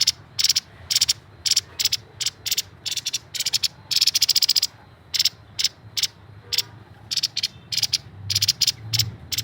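Grey-headed babbler calling continuously: a rapid, uneven series of short, high-pitched notes, two or three a second, some run together into brief chattering strings.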